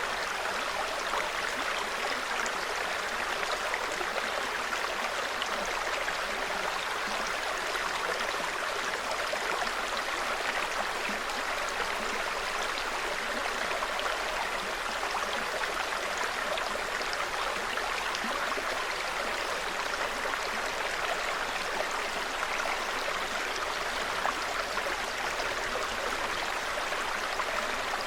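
Small forest stream running steadily, an even, unbroken babble of water.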